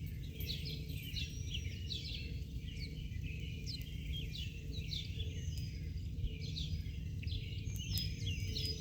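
Small birds chirping and calling, many short chirps overlapping continuously, over a steady low background rumble.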